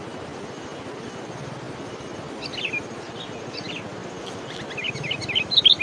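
A small bird chirping in short, high calls, a few at first, then a quick, louder run of chirps near the end, over a steady background hiss.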